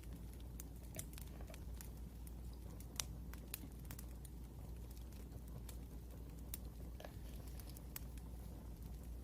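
Wood fire crackling: irregular small pops and snaps over a steady low hum, one sharper pop about three seconds in.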